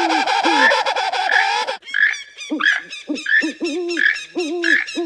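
Recorded bird calls played back by an animal-sounds app: a harsh, noisy squawk for nearly two seconds, then a short call repeated about every two-thirds of a second.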